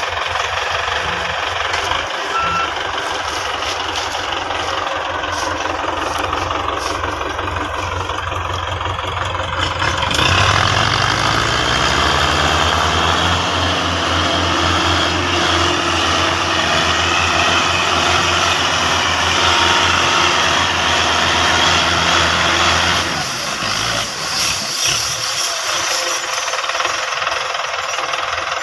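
Tractor engine running steadily. About a third of the way in it revs up, and it holds at higher revs under load before easing back down near the end.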